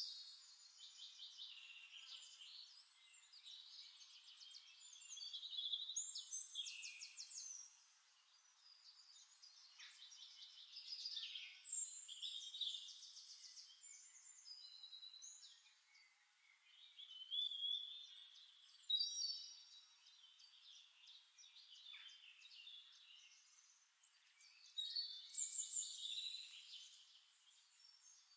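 Faint birdsong: several songbirds chirping and trilling in overlapping high phrases that come and go, with a few louder bursts of song.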